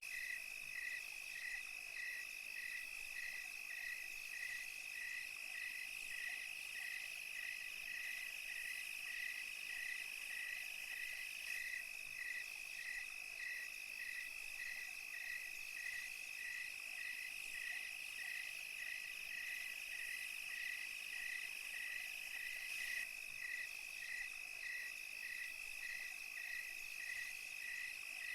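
Night insect chorus of crickets: one steady, unbroken high trill, and a second call chirping in even pulses a little under twice a second, over a fainter high buzzing of more insects.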